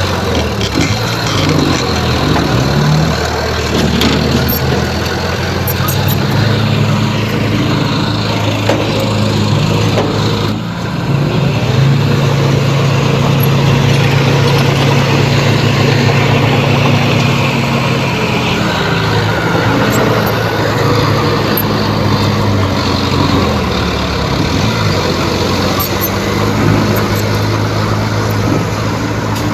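Heavy diesel engine of earthmoving machinery working under load. It runs steadily, then dips briefly about ten seconds in and comes back louder and higher-pitched for several seconds before settling.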